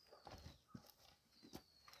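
Near silence with a few faint, short knocks and taps, and twice a faint, high, slightly falling chirp.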